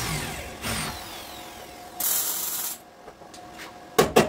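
Body-shop power tool work: a falling whine as a tool spins down, a short loud hiss about two seconds in, then three sharp knocks near the end.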